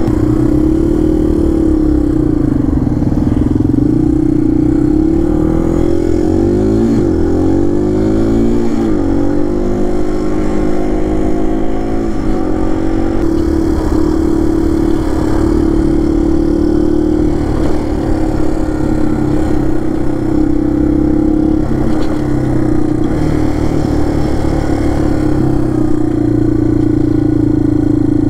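Single-cylinder dual-sport motorcycle engine running while riding, heard from the bike itself. Its pitch rises and falls with the throttle through the first ten seconds or so, then holds steady.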